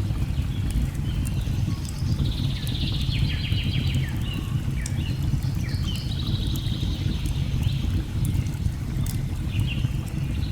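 Steady low rush of a waterfall, with birds trilling and chirping over it and scattered faint pops of a crackling fire.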